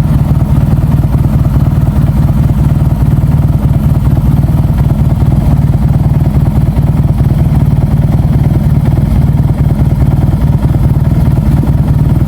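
Motorcycle engine running steadily at idle, a fast even pulse of firing strokes with no revving.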